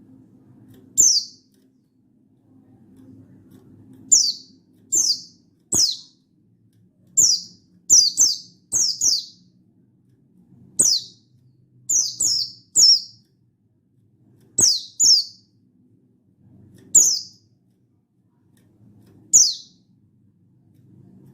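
Buxtoni white-eye (pleci buxtoni) giving short, sharp, high-pitched calls, each sliding quickly downward in pitch. The calls come at irregular intervals, about sixteen in all, some in quick pairs, over a faint low hum.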